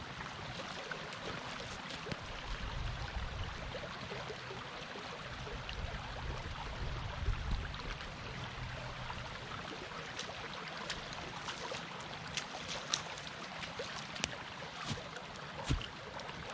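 A newly lit campfire of slightly wet wood giving scattered sharp crackles and pops, more of them in the second half, over a steady rushing of creek water.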